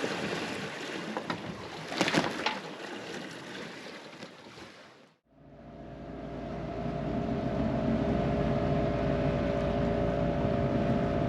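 Wind and water rushing past a sailing catamaran, then after a brief cut a marine engine running steadily, a low rumble with a steady whine over it, started to drive the watermaker.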